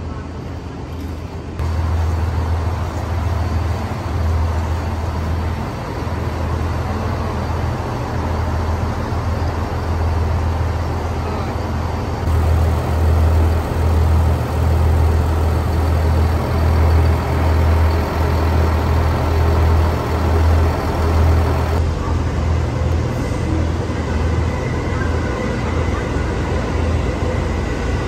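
Railway station platform ambience: a steady low rumble from waiting trains with general station noise over it. The sound changes abruptly a few times, as at cuts between scenes.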